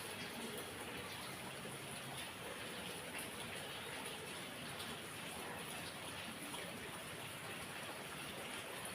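Heavy rain falling steadily, a constant even hiss with faint drop patter.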